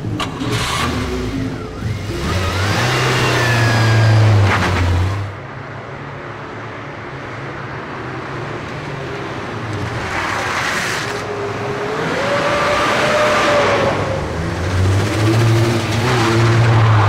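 Car engine revving and accelerating hard, rising and falling in pitch. It is loudest in the first few seconds, drops suddenly about five seconds in, then builds again toward the end.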